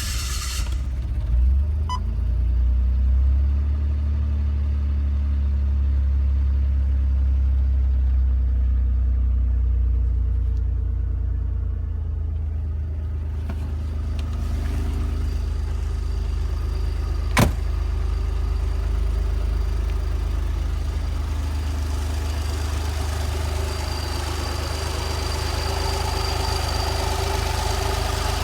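Maserati Quattroporte V6 engine idling just after being started, at a raised idle that drops to a lower, steady idle about twelve seconds in. There is a single sharp click about seventeen seconds in.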